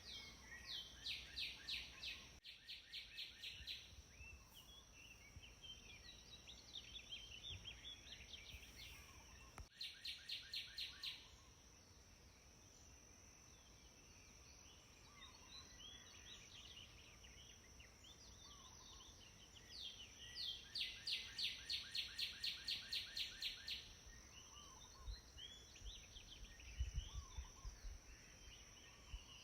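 Birds singing outdoors: one bird repeats a fast series of high, evenly spaced notes, about four a second, three times (near the start, about ten seconds in, and for about four seconds from twenty seconds in), while other birds give scattered short chirps over a steady thin high tone and faint low rumble.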